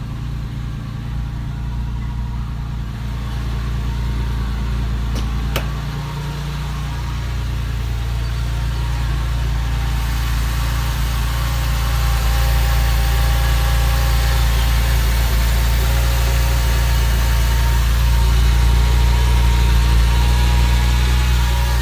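A 2000 Porsche 911 Carrera's water-cooled 3.4-litre flat-six idles steadily just after a cold start, growing gradually louder. There is a single sharp click about five and a half seconds in.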